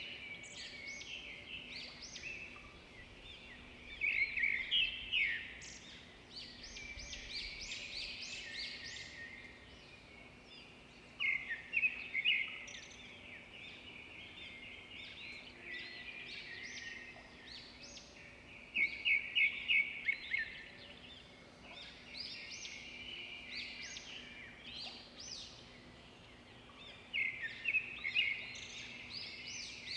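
Swiftlets twittering: clusters of rapid high chirps that come back every seven or eight seconds, with quieter chirping in between.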